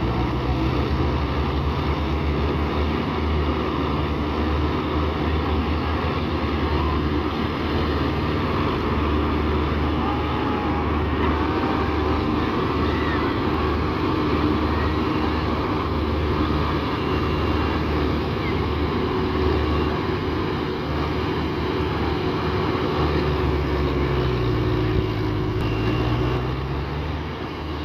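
Heavy farm diesel engine running steadily under load, its low note sagging and picking up again near the end.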